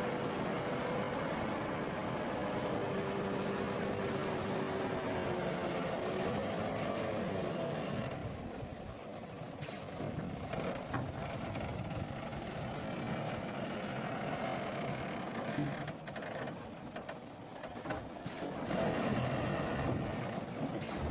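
Diesel engine of heavy earthmoving machinery running under work, its pitch wavering over the first several seconds, then easing off in level about eight seconds in. A few sharp metallic knocks sound later on.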